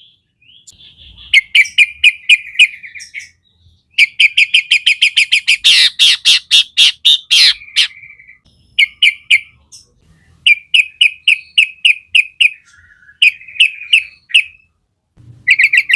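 Sooty-headed bulbul singing vigorously: phrases of rapid, sharply repeated chirping notes, broken by short pauses, with one dense run of fast notes in the middle.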